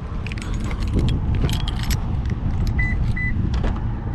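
Keys jangling and clinking over a steady low vehicle rumble, with two short high beeps about three seconds in.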